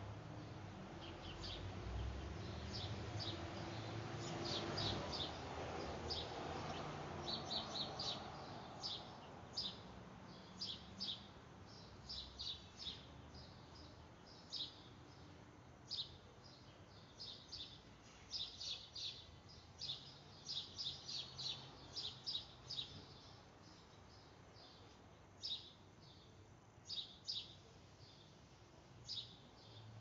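Small birds chirping: short, high chirps, singly and in quick clusters, scattered throughout. A faint rumble swells and fades away over the first several seconds.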